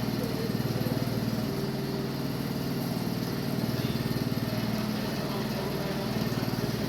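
Honda GX80 single-cylinder four-stroke petrol engine on a sugarcane juicer running steadily at constant speed.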